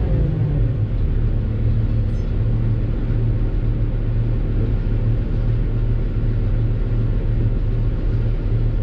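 Doosan DX600 excavator's diesel engine running steadily with a deep drone, its pitch dipping briefly right at the start.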